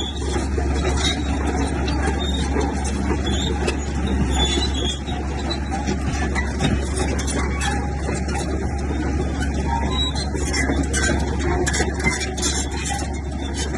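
Heavy diesel earthmoving machinery working: a steady low engine drone with a constant scatter of metallic clicks and clatter over it.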